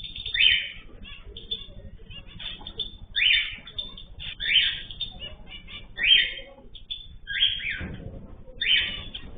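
Caged ornamental birds calling: six loud, harsh calls come about every second and a half, with many small chirps between them.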